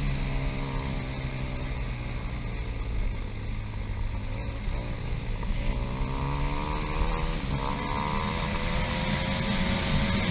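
KTM 500 EXC single-cylinder four-stroke dirt bike engine running under riding. The revs drop over the first couple of seconds, then climb again from about five seconds in, with wind rush building near the end.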